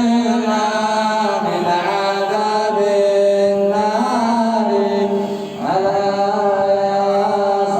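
A male munshid singing an Arabic devotional nasheed in praise of the Prophet, holding long melismatic notes that slide between pitches. A brief break comes about five and a half seconds in, and the voice re-enters with a rising glide.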